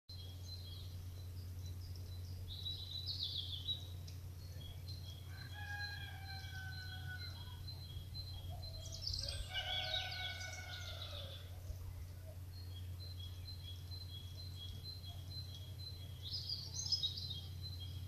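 Birds singing outdoors over a steady low rumble, with a short high note repeated at an even pace, alternating between two pitches. Louder bird phrases break in a few times, and a lower, drawn-out call sounds twice, about six and ten seconds in.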